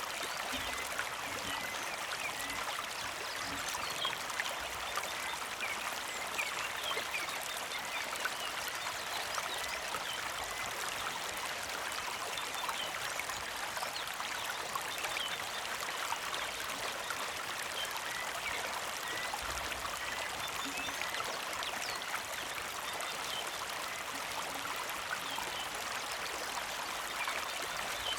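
Small mountain creek flowing and trickling steadily.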